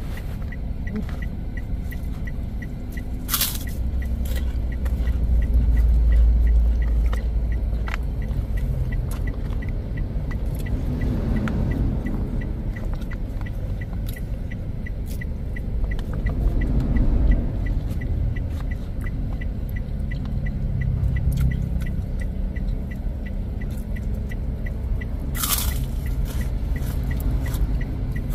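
Close-up mouth sounds of someone eating jengkol stew and stir-fried chayote: chewing, biting and small clicks, with a louder crisp click about 3 s in and again near the end. A steady low car rumble runs underneath.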